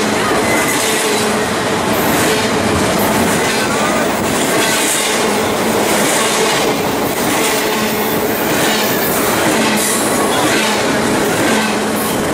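Double-stack container freight train passing close by at speed: a loud, steady clatter and rush of wheels on the rails as the well cars go by.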